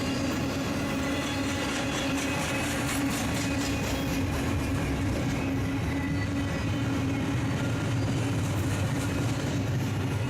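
Freight train rolling past with a steady drone and a strong low hum, with faint runs of rapid, regular clicks in the middle and again near the end.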